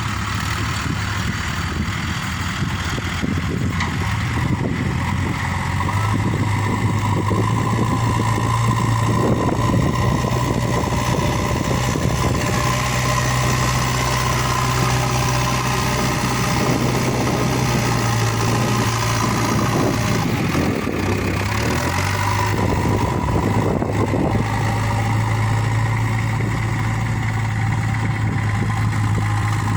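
Heavy machinery engine running steadily under varying load. Its pitch rises about six seconds in and dips briefly a little after twenty seconds, with bouts of rougher working noise over the steady hum.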